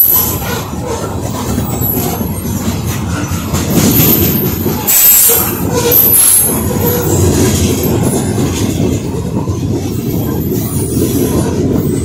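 CSX coal train rolling past: a steady rumble of coal cars on the rails, with clicks from the wheels and short, high-pitched wheel squeals now and then.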